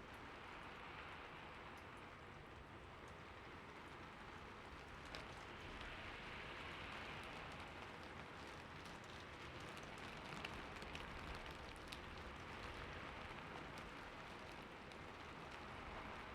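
Steady light rain falling, a soft even hiss with scattered faint drop ticks.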